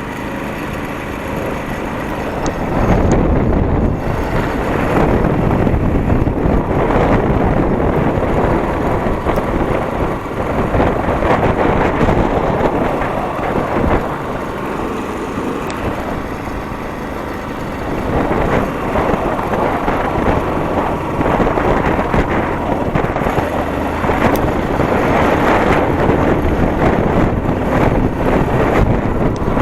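Motorcycle riding along, the engine running under heavy wind noise on the microphone that swells and eases every few seconds.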